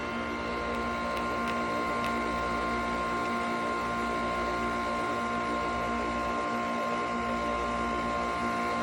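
Nespresso Vertuo Pop+ capsule coffee machine running a brew cycle: a steady mechanical hum and whine of its motor, with a higher tone growing a little stronger about a second in.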